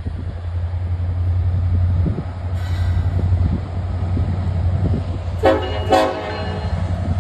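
Train running by with a steady low rumble. About five and a half seconds in, the locomotive's air horn sounds two short blasts.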